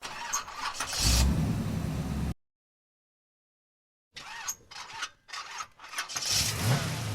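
Vehicle engine sound starting and running in two short stretches, with a low rumble and crackling clicks, cut by about two seconds of dead silence.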